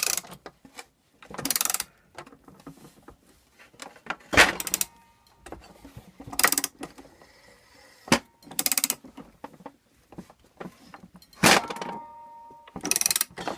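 A wrench tightens a gear puller's forcing screw against a seized pulley on a 1977 Briggs & Stratton engine's crankshaft, in about eight short clicking strokes spaced a second or two apart. Brief thin metallic ringing tones follow several strokes as the puller is loaded hard enough to bow.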